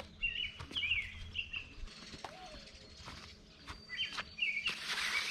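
Songbirds chirping in short, repeated phrases, in two bursts with a pause between. A few sharp clicks fall among them, and a steady hiss comes in near the end.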